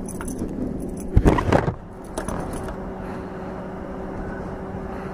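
Motorcycle engine running at a steady speed, with a brief loud knock or rustle about a second in.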